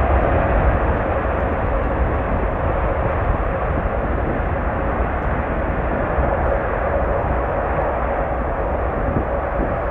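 Jet airliner engines heard from the ground, a loud steady rushing noise that slowly fades.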